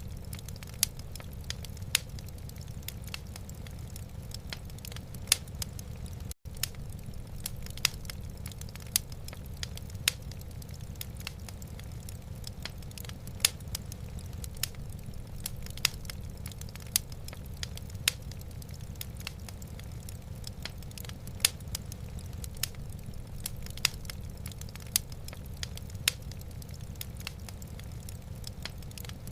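Wood fire crackling in a fireplace: irregular sharp pops about once or twice a second over a steady low rumble, with a split-second dropout about six seconds in.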